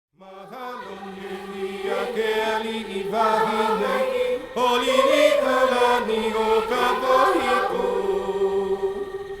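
Music: a choir of voices singing long held notes that fade in and build in loudness, the opening of a Hawaiian-language song.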